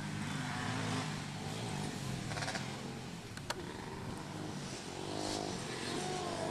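Racing engines of three-wheelers and quads running on a motocross track. The engine note fades, then rises and bends in pitch near the end as a machine revs, with one sharp click a little past the middle.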